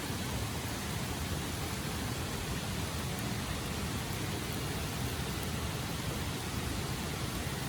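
Steady, even rushing noise that holds at one level throughout, with no distinct clicks or tones.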